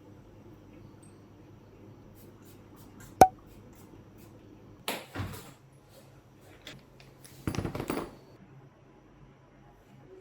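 Small handling noises in a small room: a sharp clink with a brief ring about three seconds in, a few light ticks, and two short stretches of rustling or scraping a little later.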